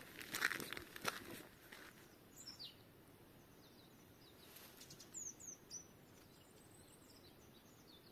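A few rustling crunches in the first two seconds, then African blue tits calling with short, high, downward-slurred chirps, in little clusters.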